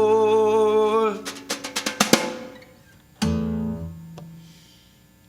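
Blues band ending a song live. A held note with vibrato gives way about a second in to a quick drum fill and a cymbal crash. A final chord follows and rings out, then the music stops.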